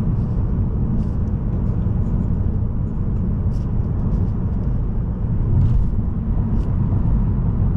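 Steady low rumble of a car driving on the road: tyre and road noise mixed with the running of the Mazda3's 1.8-litre SKYACTIV-D diesel engine, with a few faint light ticks.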